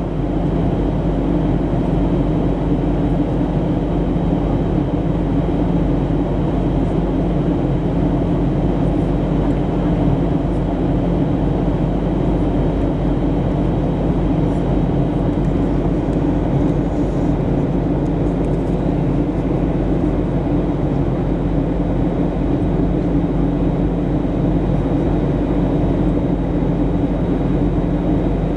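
Steady, loud cabin noise inside a Boeing 737-700 airliner: the hum of engines and air systems with a few held tones over an even rush, unchanging throughout.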